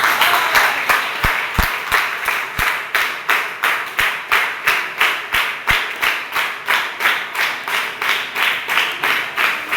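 A group of people clapping together in a steady rhythm, about three claps a second, in welcome.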